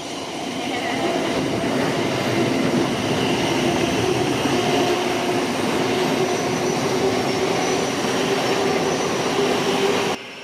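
A train passing close by: its running noise builds over the first couple of seconds and then holds steady, with a faint steady whine through it. The sound cuts off suddenly near the end.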